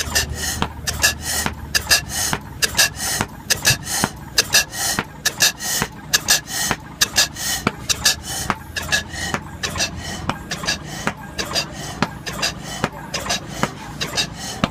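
Forest slide-valve, flame-ignition hit-and-miss gas engine running: a quick, uneven run of sharp clicks and pops, several a second, from its valve gear and flame ignition.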